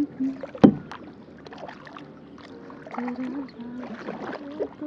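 Kayak paddling: small splashes and drips from the paddle, with one sharp knock about half a second in. A woman hums a low tune in short phrases during the second half.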